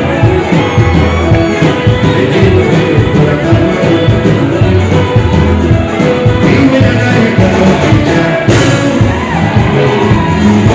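Live ohangla band music played loud through a festival sound system, with a heavy bass line; the sound quality is poor, as the uploader says. About eight and a half seconds in, a brighter hiss joins the mix.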